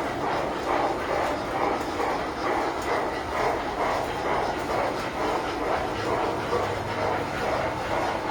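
Tinplate model trains running on the layout's metal track: a steady rumble with a rhythmic clatter.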